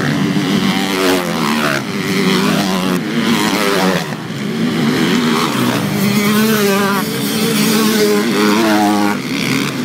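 Several motocross bikes racing, their engines revving up and down with the throttle in overlapping, wavering tones.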